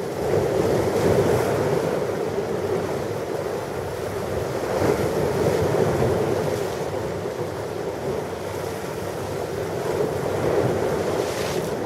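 Ocean surf: waves breaking and washing ashore in a continuous rush, swelling with each wave roughly every four to five seconds.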